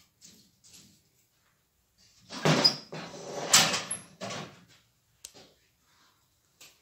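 A wood-burning stove being handled while it is loaded and lit: a loud burst of knocking and scraping about two seconds in that lasts some two seconds, with soft shorter noises before and after.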